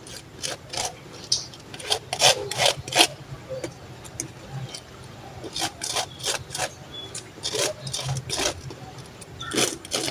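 Slices of day-old bread being spread with a margarine, garlic and oregano mixture: a series of short, irregular rasping scrapes across the dry crumb.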